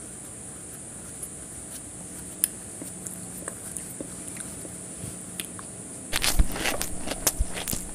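Close-miked hand-eating of mutton biryani rice. For the first six seconds there are only a few faint clicks as fingers gather rice from a steel plate. About six seconds in, a mouthful goes in and loud, wet chewing and lip-smacking begin, full of sharp clicks.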